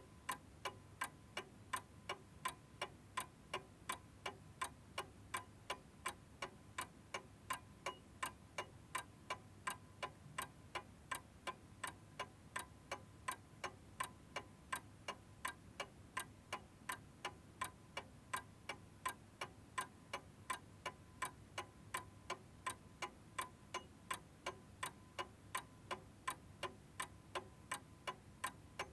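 Domestic clock ticking in a steady rhythm, about two ticks a second, the strokes alternating slightly louder and softer like a tick-tock.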